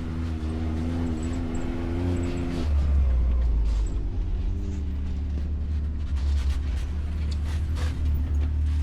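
Off-road vehicle engine running with a deep rumble; about two and a half seconds in its note drops lower as the vehicle slows, and it then keeps running steadily at a lower speed.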